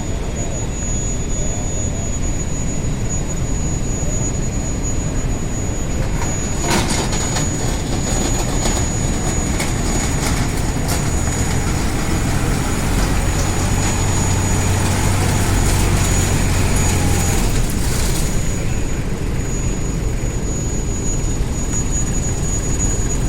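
Tafe 6028 tractor's diesel engine running steadily while powering a mounted backhoe loader, its note stronger for several seconds past the middle as it works under load. Through the middle part come repeated knocks and clanks from the backhoe at work.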